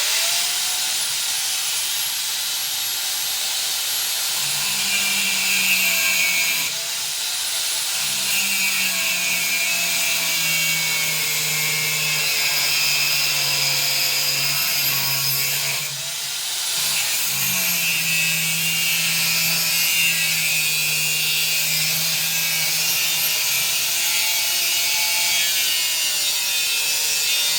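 Angle grinder cutting through steel angle, a steady harsh hiss over the motor's whine. The whine drops in pitch twice as the disc bites under load.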